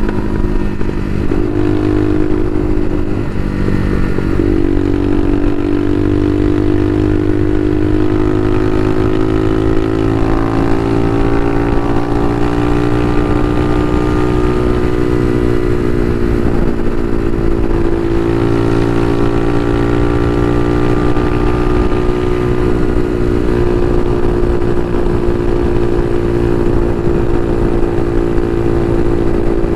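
Bashan Motomax 250 supermoto's engine running while riding, its pitch slowly rising and falling with the throttle and no sharp revs.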